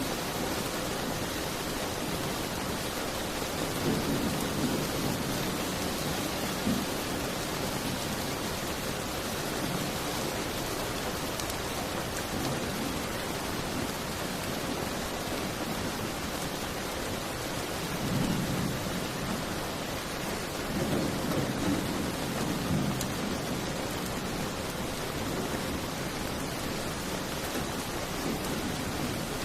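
Steady, dense rain with low rumbles that swell and fade a few times: once a few seconds in, and twice more past the middle.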